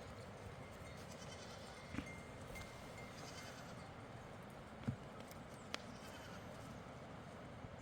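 Faint bleating of livestock over a steady rushing background, with a few short knocks.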